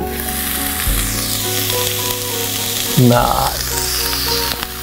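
Tendli (ivy gourd) sabzi sizzling in oil in a pan on the stove, the sizzle coming up suddenly as the glass lid is lifted off. A single knock about three seconds in.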